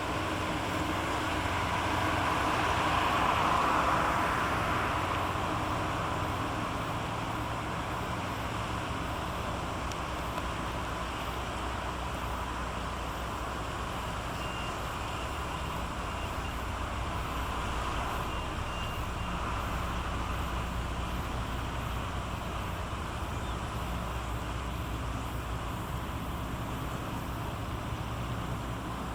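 Steady low engine rumble of a ship passing through the strait, swelling a few seconds in and then settling.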